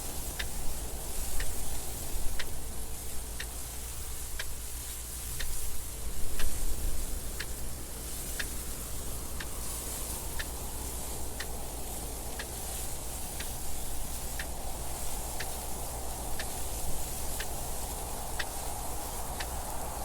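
Clock ticking steadily, about one tick a second, over a continuous wind noise that swells twice in the first half.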